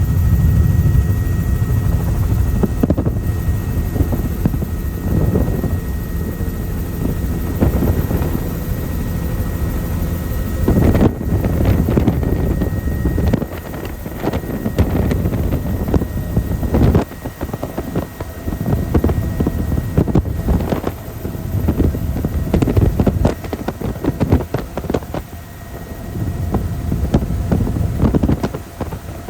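Helicopter in flight: steady rotor and engine drone, with gusty wind buffeting the microphone so the level swells and dips.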